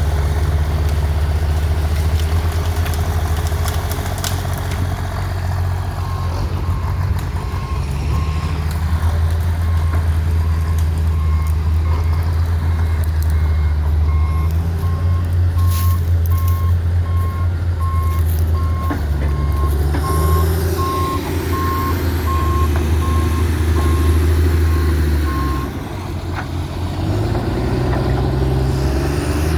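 Diesel engine of a John Deere log skidder working steadily under load, with its backup alarm beeping steadily for most of the time as the machine reverses. The engine eases off briefly near the end.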